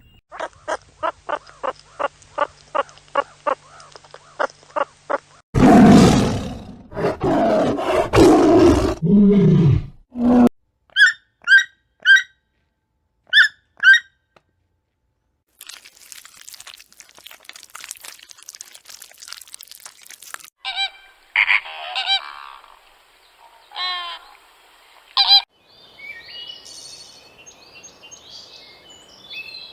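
A run of different animal and bird calls, one after another: a quick series of short, evenly spaced pitched calls, then a loud, harsh call lasting several seconds, then short high chirps in pairs, followed by further scattered calls.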